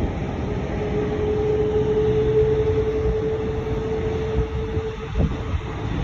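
Jet airliner engines running, with a steady whine held for about four seconds over a deep rumble.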